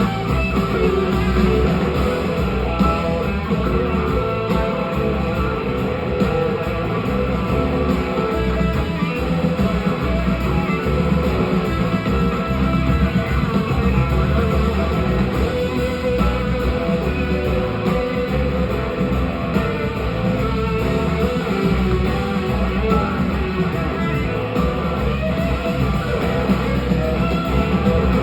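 Live band playing an instrumental passage of a rock song, with electric guitar to the fore.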